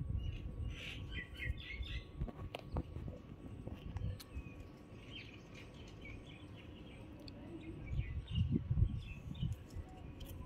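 Small birds chirping in short repeated calls, over a low rumble that swells near the end.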